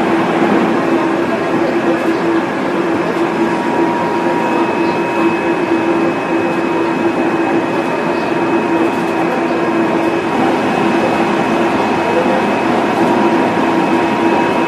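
Running sound of a JR Central 373 series electric multiple unit, heard from inside the car: steady rumble of wheels on rail with the Toshiba GTO-VVVF inverter and traction motors whining at level pitches. A higher whine joins about four to five seconds in.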